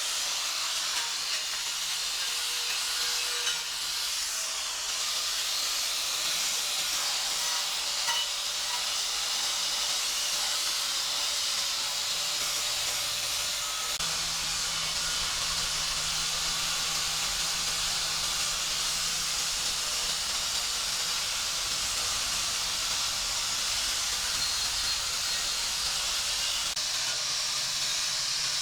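A steady, even hiss that runs on without a break.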